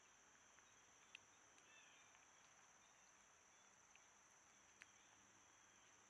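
Near silence: a faint, steady high-pitched insect chorus, like crickets, with two faint ticks, one about a second in and one near the end.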